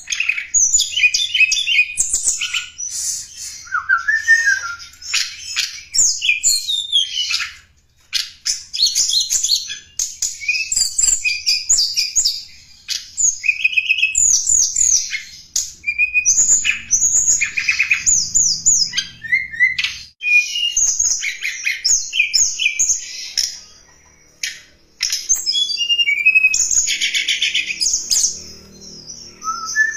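A tledekan gunung singing a long, fast run of high chirps, whistles and rattling trills, broken by brief pauses. It is a lure-call song used to attract wild tledekan.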